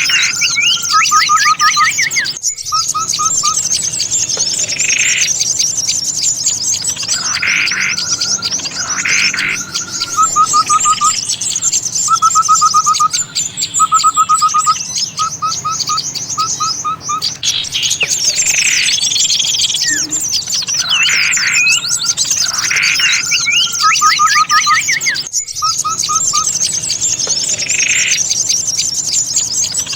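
Bird-lure call recording: a dense mix of many small songbirds chirping and calling at once, with repeated runs of short, fast clipped notes beneath the high chatter. The mix briefly drops out about two and a half seconds in and again near the end, then the same sequence repeats, as a looped lure track does.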